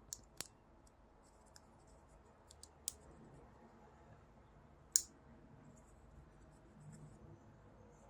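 A few sharp, isolated clicks and small ticks from packaging and small plastic parts being handled, the loudest about five seconds in.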